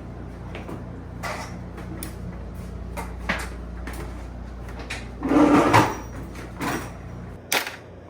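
A series of separate light clicks and knocks over a low steady hum, with a louder scuffing knock about five and a half seconds in.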